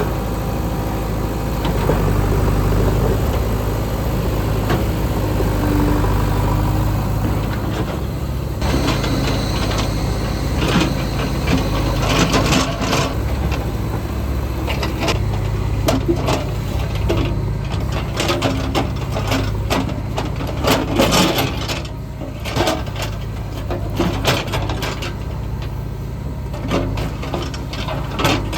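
Diesel engine of heavy construction machinery running steadily. From about nine seconds in, repeated sharp clanks and rattles sound over it.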